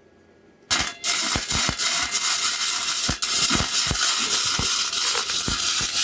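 Wire-feed welder arc striking about a second in and then crackling steadily: a dense sizzling hiss full of irregular sharp pops as exhaust pipe is welded.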